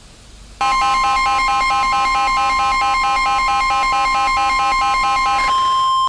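Emergency Alert System attention tone: a loud, harsh electronic alarm that starts abruptly out of faint TV-static hiss about half a second in. A steady high tone sounds with a fast pulsing layer beneath it, runs for about five seconds, and cuts off at the end.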